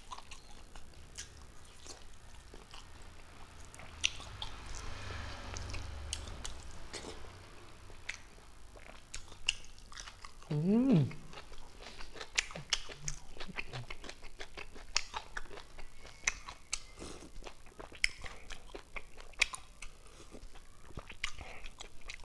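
Close-miked chewing and wet mouth clicks and smacks of someone eating rice and curry with his fingers, many quick clicks in a row. About ten seconds in a short hummed "mm" rises and falls in pitch, the loudest sound.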